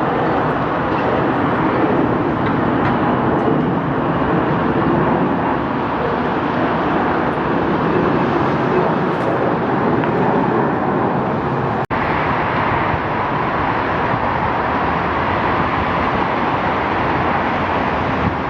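Jet engines of an Airbus A321ceo at takeoff power, heard as a loud, steady rushing noise as the airliner departs. The sound drops out for an instant about twelve seconds in.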